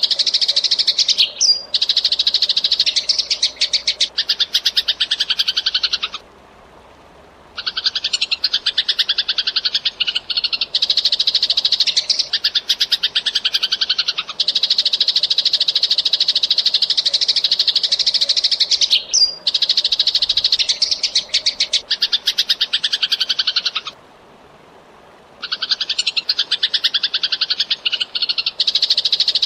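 Eurasian tree sparrow chirping fast and without let-up: dense runs of rapid, high short chirps, broken twice by pauses of about a second and a half.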